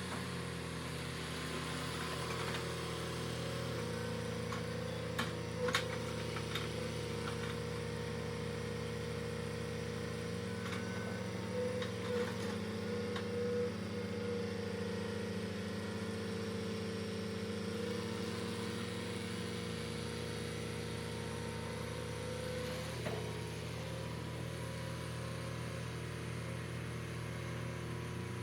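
An engine running steadily, its low hum shifting twice, with a few short metallic knocks partway through.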